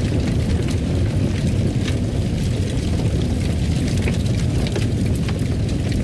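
Wood fire crackling in a fireplace: a steady low roar with small sharp pops and crackles scattered irregularly throughout.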